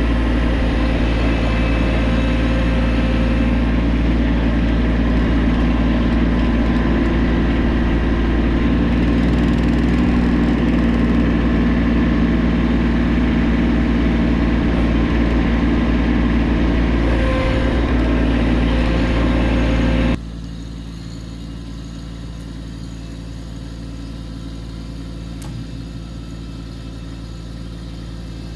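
Kubota tractor's diesel engine running steadily at a constant speed, loud and low-pitched. About twenty seconds in it drops suddenly to a much quieter, steady running.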